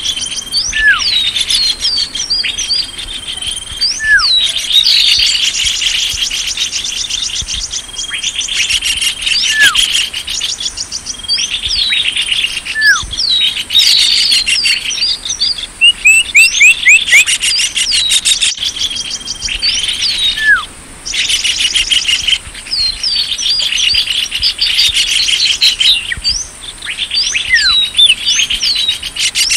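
Dense chorus of small songbirds chirping, trilling and whistling high, with many overlapping calls and a short downslurred note recurring every few seconds. This is a bird-lure (pikat) recording, played to draw small birds in.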